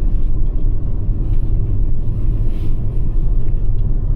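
Steady low rumble of a Toyota RAV4 Prime driving on snow-covered road, heard inside the cabin: tyre and road noise from Blizzak snow tires.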